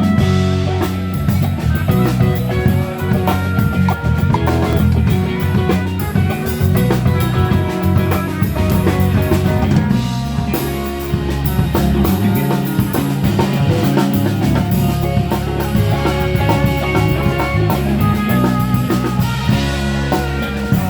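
Live band playing an instrumental passage, with drum kit and guitar, between sung verses.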